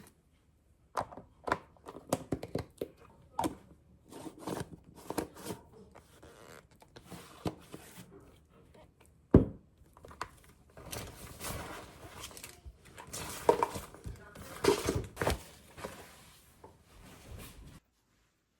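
Kitchen handling sounds: a run of knocks and clicks from dishes, utensils and containers being set down and moved, with stretches of plastic crinkling in the middle and one sharp knock about nine seconds in. The sounds stop abruptly near the end.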